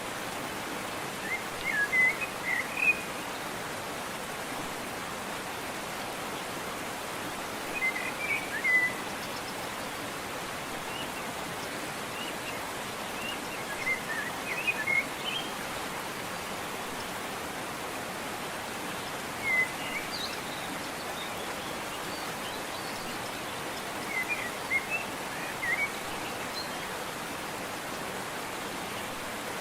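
Steady rush of a waterfall, with a small bird singing short chirpy phrases about every five to six seconds over it.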